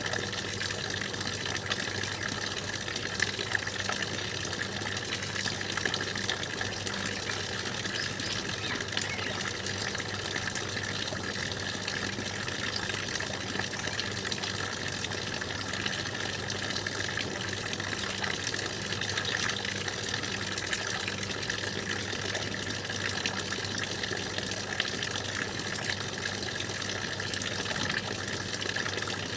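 A stream's water running steadily, as one continuous rush of flowing water.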